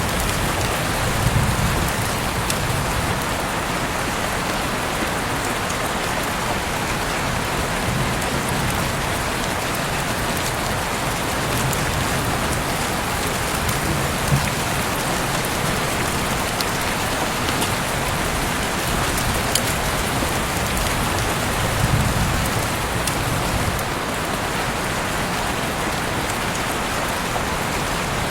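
Heavy rain falling steadily, with a dense hiss of rain on surfaces and scattered individual drop taps, heard through an open window. A soft low rumble swells now and then beneath it.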